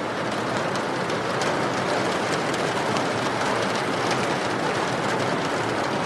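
Steady rain falling, an even hiss with the patter of separate drops.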